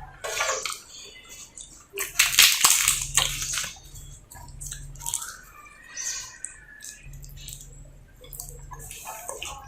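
Close-miked eating of potato sabzi with roti: wet chewing, lip smacks and mouth clicks, with a louder, noisier burst about two seconds in lasting a second or so.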